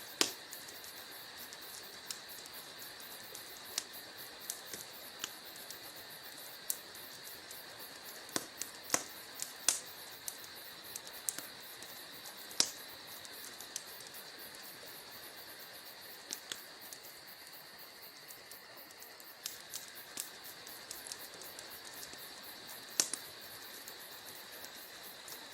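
Wood fire burning in a fireplace, crackling: irregular sharp pops and snaps, a few much louder than the rest, over a steady high hiss.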